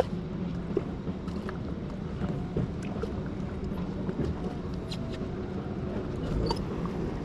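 Jet ski engine running steadily with a low hum.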